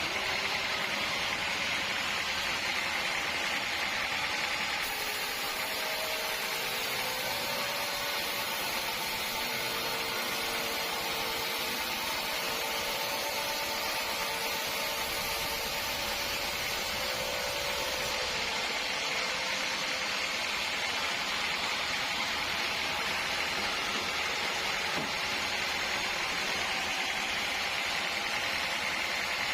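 Sawmill machinery running steadily: an even, hissing mechanical noise with a few faint steady tones under it.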